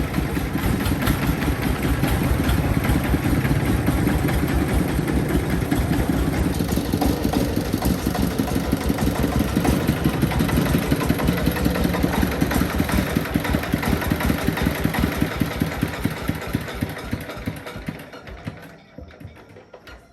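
Tractor engine running with rapid, even beats, dying away over the last few seconds.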